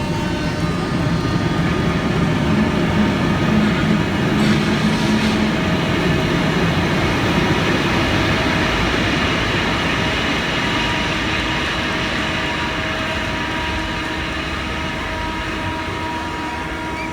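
Ferry hull sliding down the shipyard launching ways: a continuous rumbling, grinding noise with several long, steady squealing tones over it. It is loudest a few seconds in, then slowly eases.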